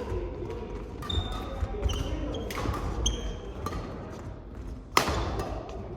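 Badminton doubles rally on an indoor court: sharp racket strikes on the shuttlecock, the loudest about five seconds in, with brief shoe squeaks on the court floor in between.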